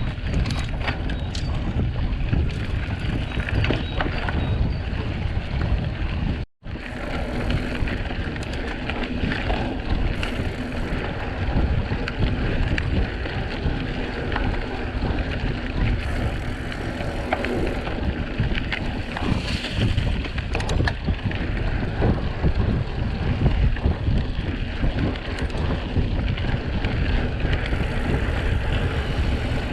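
Trek X-Caliber 8 mountain bike being ridden: steady tyre and wind noise with frequent small clicks and knocks from the bike. The sound cuts out for a moment about six seconds in.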